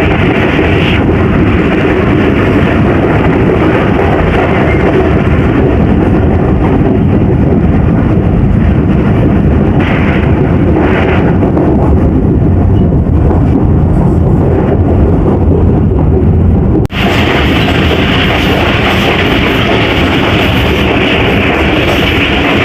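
Loud, steady roar of a moving passenger train, with wheels running on the track at speed. The sound breaks off sharply and resumes with a brighter tone about two-thirds of the way through.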